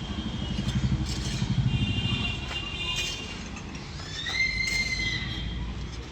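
Excavator's diesel engine running, throbbing louder through the first three seconds, with high-pitched squeals over it and one longer squeal about four seconds in.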